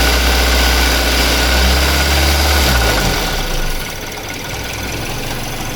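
Suzuki J20A 2.0-litre four-cylinder petrol engine held at raised revs, then dropping back to idle about three seconds in. With its connecting-rod bearings just replaced, it runs without the bearing rattle it had before the repair.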